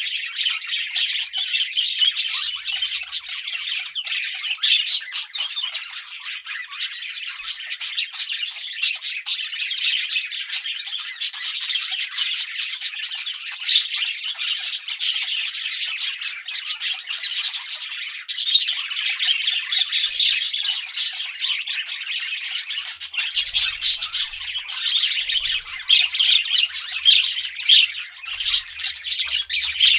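A flock of budgerigars chattering and chirping continuously, a dense warble of short chirps and squawks with sharp clicks.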